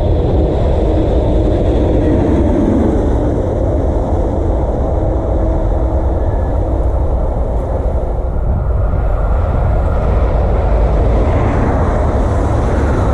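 A train passing close by, a loud, steady rumble.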